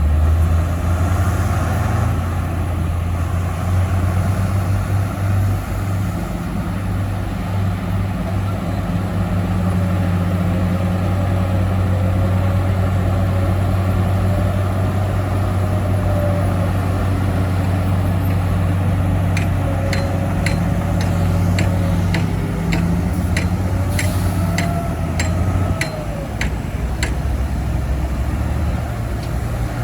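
Heavy diesel earthmoving machinery, bulldozer and dump-truck engines, running with a steady low drone. From about two-thirds of the way in, a run of sharp clicks or clanks comes in over it, about one or two a second.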